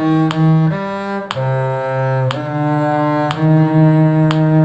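Bowed string instrument in the cello's low range playing a slow tune in long sustained notes, with a metronome clicking steadily about once a second on the dotted-quarter beat.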